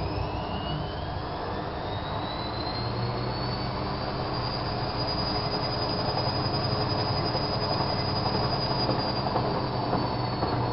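Bauknecht WAK7751 washing machine speeding up its drum: a high motor whine rises over about five seconds and then holds, over a steady low rumble. The owner takes the sound for a drum bearing that is slowly failing.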